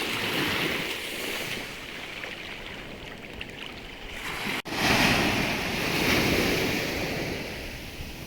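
Sea surf: waves washing in on the shore, the rush swelling twice. It cuts out for an instant about halfway through.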